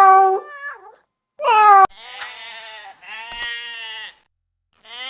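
A run of bleats from sheep or goats, edited back to back: a loud bleat at the start, a second cut off abruptly, then two duller, quieter bleats, a short gap, and a new bleat starting near the end.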